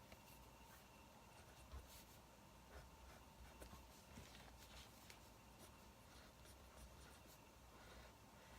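Faint scratching of a pen or pencil writing on paper, in short irregular strokes, over a low steady hum.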